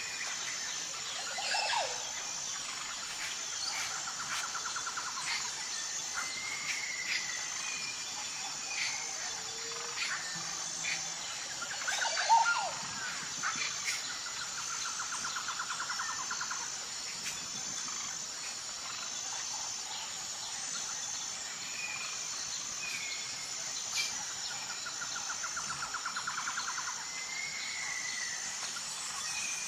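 Forest ambience: birds calling and trilling over a steady high insect chorus. A short fast trill repeats three times, about eleven seconds apart, and the loudest call comes near the middle.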